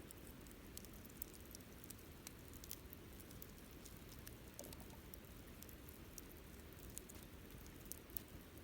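Wood fire burning, with scattered faint crackles and small snaps over a low, steady bed of noise.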